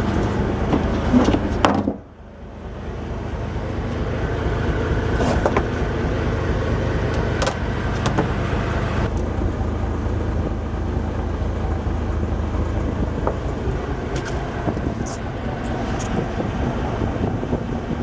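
A boat's engine running with a steady low rumble; it drops away sharply about two seconds in, then swells back up over the next couple of seconds.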